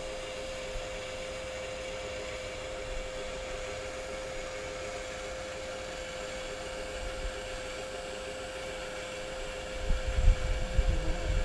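A steady, even hum with a faint hiss throughout. About ten seconds in, an irregular low rumble comes up.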